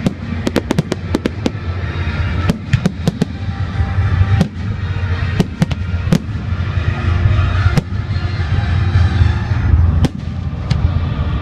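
Fireworks display: many sharp cracks and pops from bursting fireworks, coming fast in the first couple of seconds and then more spaced out. Under them run the display's music soundtrack and a steady low rumble.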